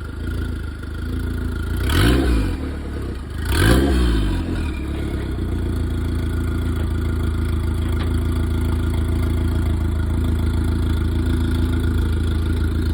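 Engine of a mid-engine SRT-4 conversion revved twice, briefly, in quick succession as the car pulls away slowly, then running steadily under light throttle.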